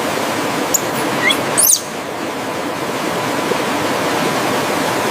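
Steady rushing, water-like noise of rainforest ambience, with a few quick high bird chirps about a second in.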